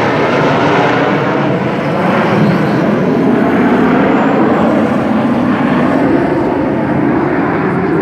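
Airplanes flying past: a loud, steady rush of aircraft engine noise.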